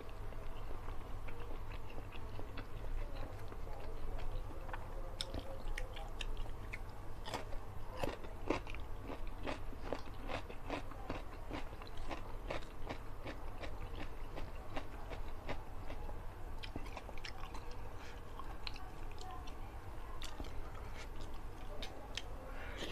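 Close-up mouth sounds of a person chewing food: many short wet clicks and smacks, with an occasional crunch.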